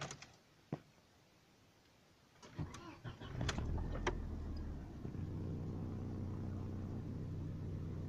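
A few clicks, then the Audi A4 B5's 1.8-litre ADR four-cylinder engine cranks briefly, catches about three and a half seconds in, flares and settles into a steady idle. This is the engine idling smoothly on a newly replaced throttle body, which cured the unstable idle caused by a worn throttle-position potentiometer track.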